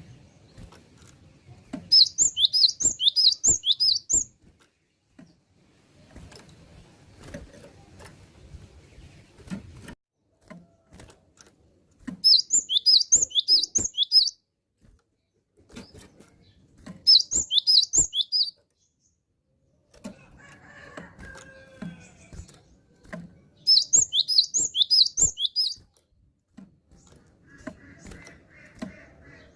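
Caged cinereous tit (gelatik batu) singing four phrases of quick, high repeated notes, each phrase about two seconds long, with faint clicks and rustling in the gaps.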